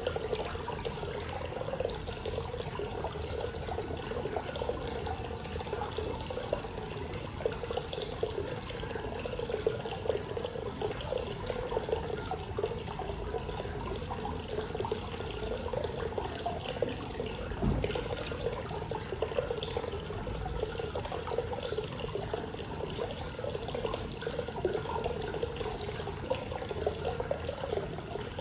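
Hot spring water pouring steadily into an onsen bath, an even splashing and gurgling that runs on without a break.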